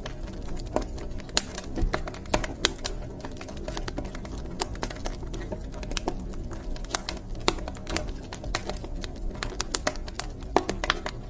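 Wood fire crackling in a fireplace: irregular sharp pops and snaps over a low, steady rumble of the burning logs.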